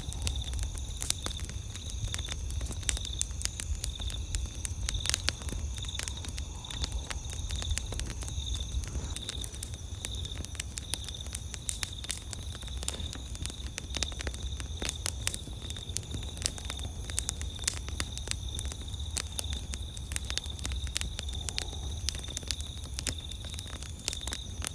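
Wood campfire crackling, with frequent irregular pops and snaps over a low rumble. A steady high-pitched trill of night insects runs behind it.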